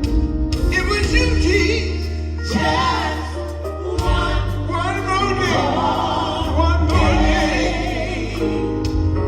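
Live gospel quartet music: lead and backing voices singing over electric bass and drums.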